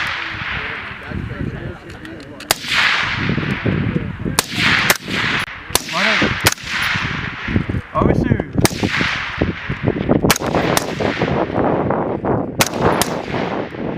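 Rifle fire from several shooters on a range: about a dozen sharp shots at irregular intervals, some in quick pairs, each trailed by a long echo.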